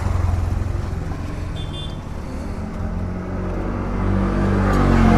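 Royal Enfield Super Meteor 650's parallel-twin engine running at idle, then revving up a little and getting louder near the end.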